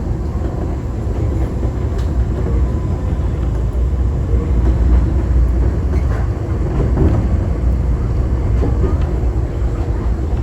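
Enoden electric train running, heard from inside the car: a steady low rumble with a few faint clicks.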